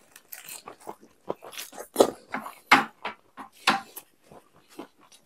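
Close-up eating sounds: a mouthful of lettuce wrap being chewed, heard as irregular short crunches and smacks.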